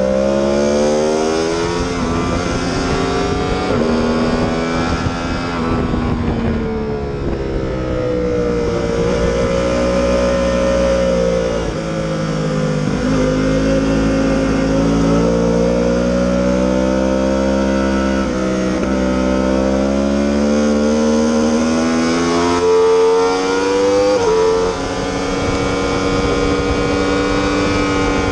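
Yamaha R1 sport bike's inline-four engine at speed on a race track: the pitch climbs under acceleration and drops suddenly at each upshift, and winds down slowly under braking into corners, several times over.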